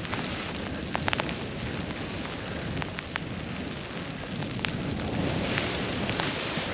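Snowboard sliding and carving through powder snow, a continuous hiss mixed with wind on the helmet microphone, swelling toward the end. Several sharp clicks and knocks cut through it, the clearest a quick cluster about a second in.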